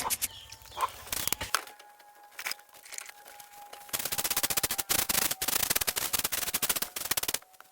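Broom brushing dust off the hut's walls: a fast run of scratchy strokes starting about four seconds in, with a short break near the end.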